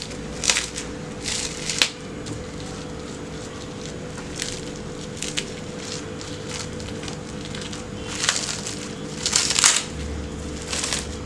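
Crinkling and crackling of wrapping being handled and peeled off a block of chilled cookie dough, in irregular short bursts, the longest near the end.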